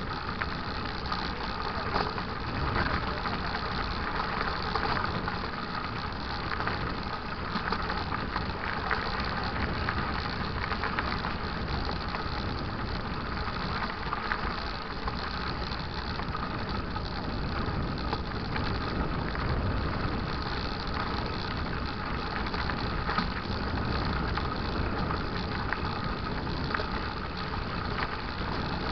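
Mountain bike riding over a dirt trail: a steady rumble of tyres and wind with many small rattles and knocks from the bike.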